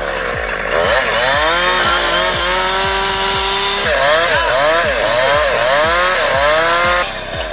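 Chainsaw engine revving hard, its pitch repeatedly dipping and climbing back up as it works. A steady beat of background music runs underneath.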